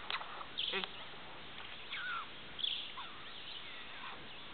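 Scattered short bird chirps and quick falling calls over a steady outdoor hiss.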